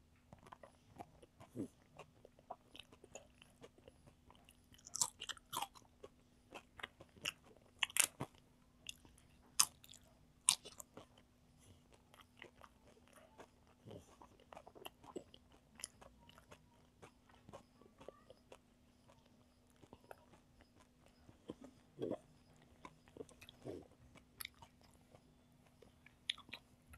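Close-miked chewing and mouth sounds of someone eating rice and curry by hand: irregular wet clicks, smacks and occasional crunches, busiest a few seconds in and again near the end. A faint steady hum runs underneath.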